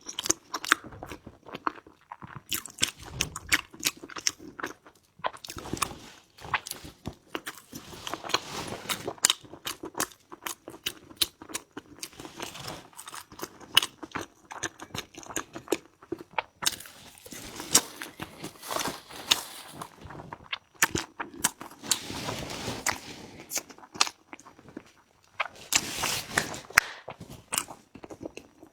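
Close-miked eating: a person biting and chewing crunchy food, with sharp crackling crunches that come in clusters of a second or two.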